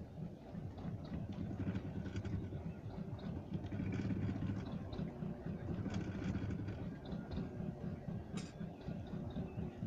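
A motor engine running steadily with an even, pulsing hum, with faint short chirps over it.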